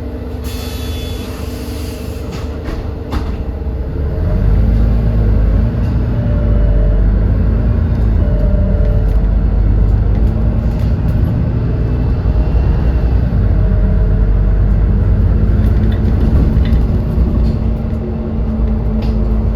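Edison Motors Smart 110G natural-gas city bus's GX12P engine, heard from inside the bus. It runs steadily with a short hiss about half a second in, then grows louder about four seconds in and keeps running under load, its pitch wavering up and down.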